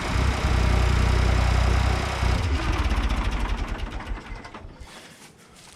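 Ford 420 tractor backhoe's engine running, then shut off about two seconds in. It slows in a run of knocks that grow further apart and dies away over the next couple of seconds.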